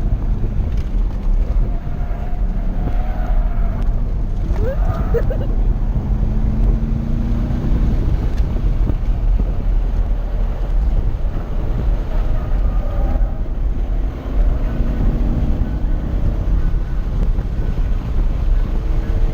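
Race car engine running hard at speed, with its pitch climbing in slow rises, notably around the middle and again near the end. Heavy wind noise on the microphone runs under it.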